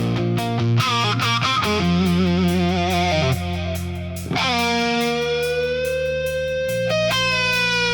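Electric blues guitar solo over a bass and band backing: a run of short notes with vibrato, then a long held note with vibrato from about halfway through.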